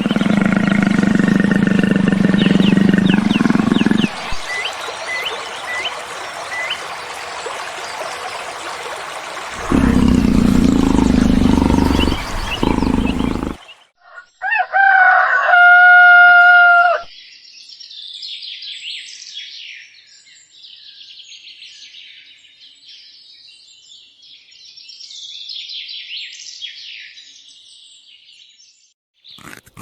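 Poultry: a rooster crows once, a call of about two seconds starting near the middle, among noisy clucking and chirping before it and faint high chirps after it.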